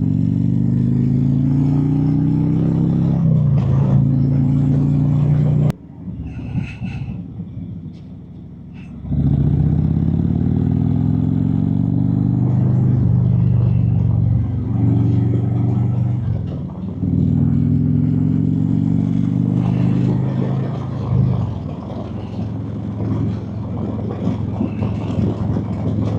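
Harley-Davidson Road Glide's V-twin engine pulling hard under way, its pitch climbing and then dropping back at each upshift, several times over. For about three seconds in the middle the engine sound drops away to something much quieter, then picks up again.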